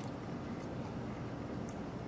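Room tone: a steady low hum and hiss, with a faint click near the end.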